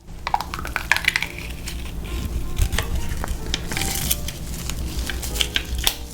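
Close-miked eating and food-handling sounds from a fried-food meal: many sharp crunches and crackles as crispy fried food is handled and bitten.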